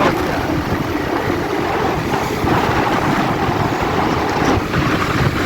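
Steady rush of wind over the microphone mixed with the road and engine noise of a moving motorbike.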